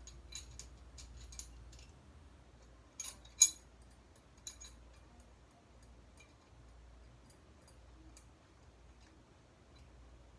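Metal clicks and light taps of a shower handle puller tool being fitted and adjusted on a faucet handle, with one sharp clack about three and a half seconds in and fainter ticks after.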